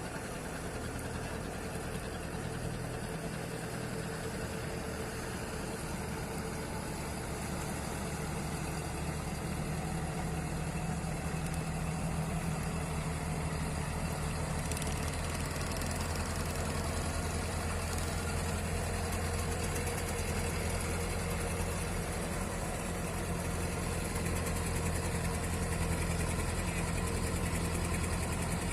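Fishing boat's inboard engine running steadily with a low, even drone that grows a little louder partway through.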